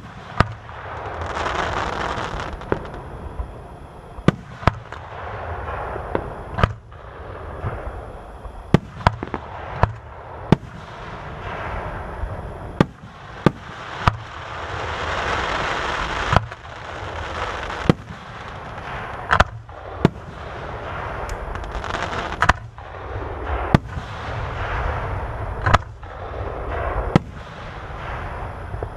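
Aerial fireworks display: a rapid series of sharp shell bursts, one or two a second, over a low rumble. Between the bangs, stretches of dense noise swell and fade over a second or two.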